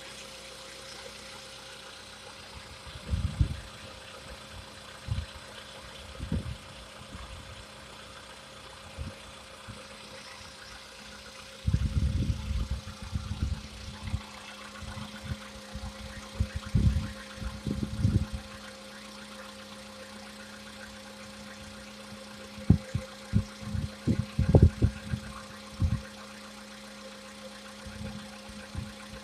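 Volkswagen Polo Sedan's CFNA 1.6-litre four-cylinder petrol engine idling with a steady hum. Irregular low thumps come through it: a few early, a cluster in the middle, and more near the end.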